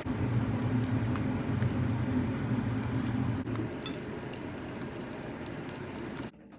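A steady low engine hum over an even hiss of rain; the hum fades out a little past halfway, and the sound drops off suddenly near the end.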